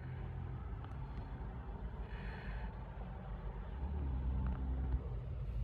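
Low rumble of a jet airliner's engines at takeoff power, heard from a distance, growing louder about four seconds in.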